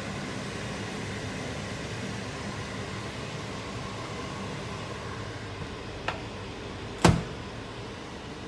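Maytag microwave oven running with a steady hum. A click about six seconds in is followed a second later by a loud clunk.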